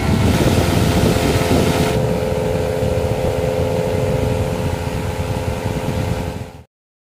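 Small electric motor of a homemade table fan running steadily with a rough, rattling hum, cutting off suddenly near the end.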